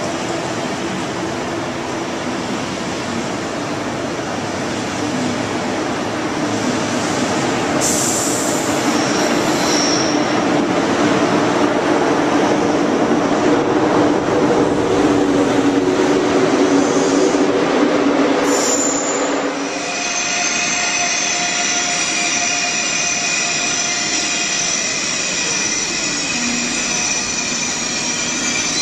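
ICE high-speed electric train running along the platform: a dense rumble of wheels and drive with low tones, growing louder towards the middle. About twenty seconds in, the sound changes to a steady whine made of several level high tones from the electric train.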